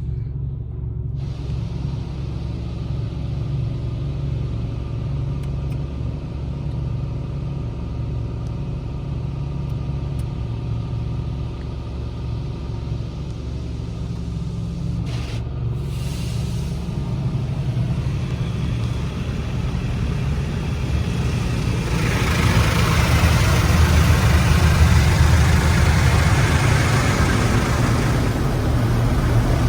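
Touchless automatic car wash heard from inside the car: a steady low rumble of machinery, with a louder rushing hiss swelling up about two-thirds of the way in and easing off near the end.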